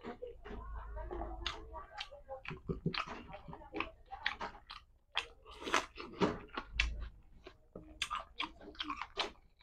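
Close-miked chewing and mouth sounds of a man eating a meal by hand, with many short sharp smacks and clicks.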